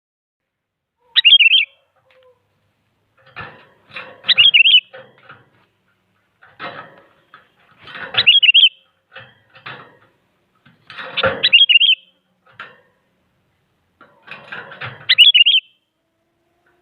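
Sooty-headed bulbul (kutilang) singing its short bubbling phrase five times, about every three to four seconds. Each phrase is preceded by a few scratchy, rattling noises.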